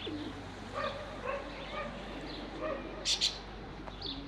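Short animal calls repeating every half-second or so, with two sharper, higher calls a little after three seconds in.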